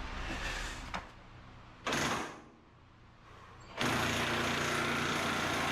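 A power tool turning a torsion-bar ride-height adjuster bolt. It runs in a short half-second burst about two seconds in, then steadily for about two and a half seconds from near the four-second mark.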